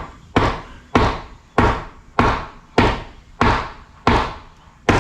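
Hammer striking wood in a steady rhythm: about eight evenly spaced blows, a little over half a second apart, each with a short ringing decay. It is the sound of a 5/4 board being knocked into a tight opening in a door frame.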